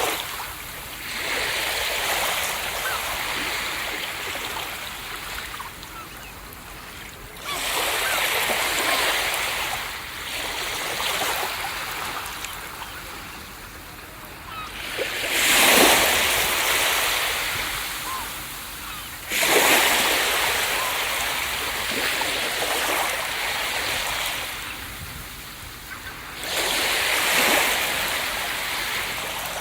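Ocean waves breaking on a beach: five surges, each coming in suddenly and falling away in a long hiss of washing foam, the loudest two a little past the middle.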